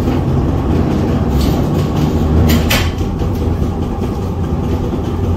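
Vintage tram running along its rails, a steady low rumble of wheels and motor, with two short sharp clicks about halfway through.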